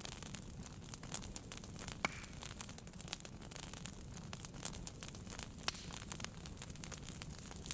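Wood fire burning in a fireplace, crackling with frequent irregular pops and snaps over a low steady rumble of the flames, with one sharper pop about two seconds in.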